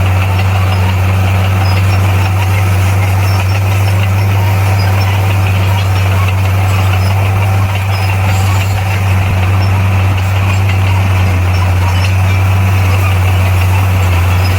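Bulldozer's diesel engine running at a steady pitch, a deep constant drone with no change in speed.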